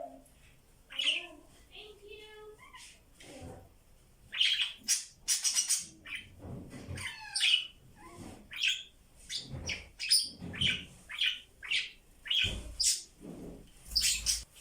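Pet budgies chattering: a busy run of short chirps, squeaks and warbles, some calls sliding down in pitch.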